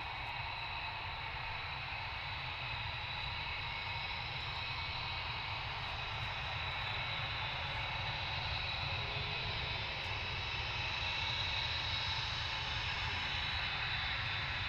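Jet aircraft engines running with a steady noisy hum and a high whine, slowly growing louder.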